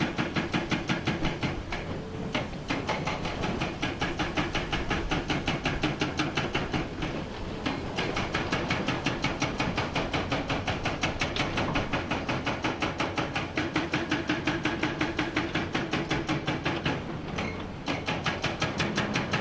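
Hydraulic hammer on a Komatsu PC490 excavator pounding rock in a fast, steady run of blows, about seven a second, over the excavator's engine. The blows pause briefly about two, seven and seventeen seconds in.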